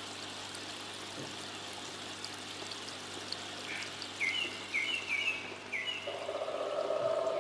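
Water from a homemade jet-stream fountain pouring and trickling steadily into an aquarium. Birds chirp in short falling notes from about four seconds in, and a steady tone joins near the end.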